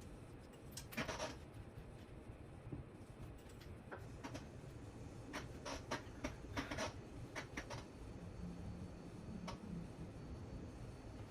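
Scattered small clicks and short rustles of hands handling cables and small parts at a workbench, in irregular bursts with a cluster near the start and several more in the middle.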